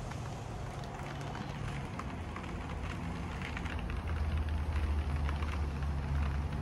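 Rain falling as a thunderstorm arrives, with a steady hiss and scattered drop sounds. A low rumble swells about four seconds in.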